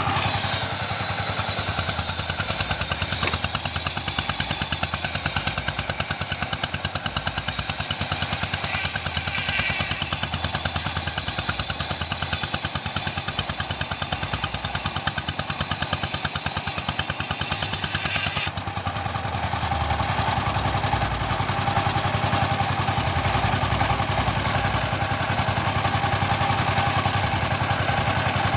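Engine-driven saw running steadily on wood. A high cutting noise rides over the engine and stops abruptly about two-thirds of the way through, while the engine keeps running.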